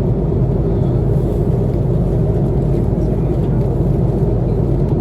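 Steady low rumble of an Airbus A330-300's engines and airflow heard inside the passenger cabin.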